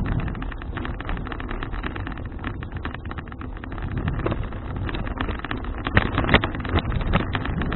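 Wind buffeting an action camera's microphone while riding a folding bicycle, with steady rumbling and dense crackling and rattling from the ride.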